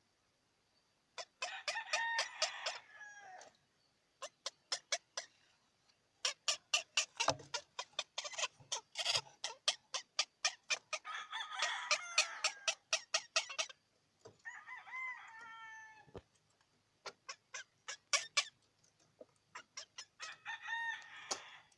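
Chicken calls: runs of rapid short clucks, several a second, broken by longer drawn-out pitched calls a few times.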